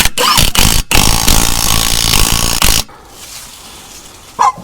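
A power tool runs in one burst of about two seconds, starting about a second in and cutting off sharply. A brief high whine follows near the end.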